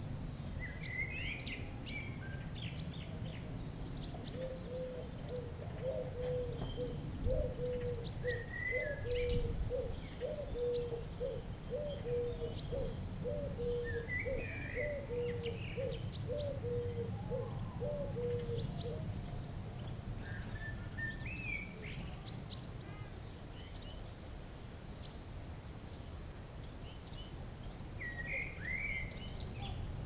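Small birds chirping around a bird feeder, with short, high calls scattered throughout. For much of the first two-thirds, a lower note repeats about twice a second, then stops. Underneath is a steady low rumble.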